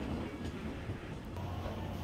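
Steam-hauled passenger train of the SL Paleo Express running on the rails, heard from inside a carriage: a steady low rumble with one click about half a second in, and a low hum setting in past the middle.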